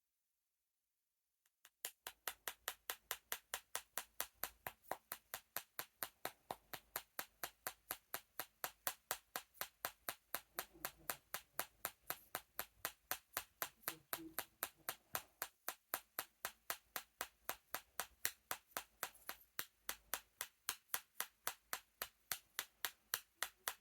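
Cockatiel drumming its beak on a cup: sharp, evenly spaced taps at about four to five a second, starting about a second and a half in.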